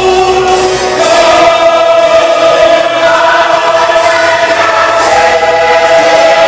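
Church choir singing sustained chords with accompaniment, part of a Christmas cantata.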